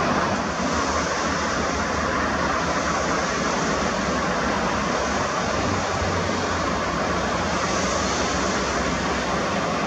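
Jet airliner engine noise, a steady rushing sound that holds level throughout.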